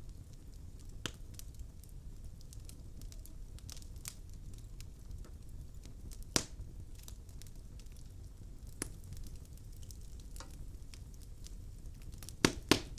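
Wood logs burning in a fireplace, crackling with scattered sharp pops over a steady low rumble. The loudest pop comes about halfway through, and two more come close together near the end.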